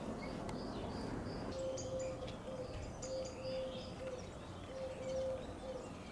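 Birds chirping, with one bird cooing in a low repeated phrase from about a second and a half in, over a faint steady low rumble.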